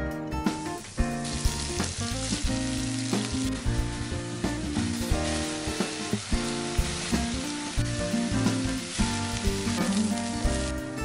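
Shimeji and maitake mushrooms frying in olive oil in a frying pan: a steady sizzle that starts about half a second in. Light guitar music plays underneath.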